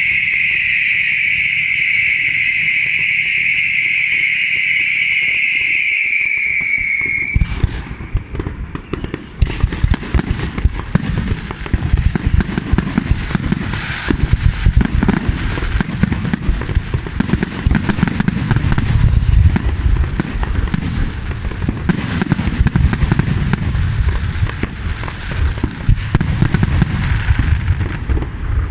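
Fireworks aerial display: a steady, high-pitched hissing whistle for about seven seconds that cuts off suddenly, then a continuous barrage of bangs and crackling shell bursts.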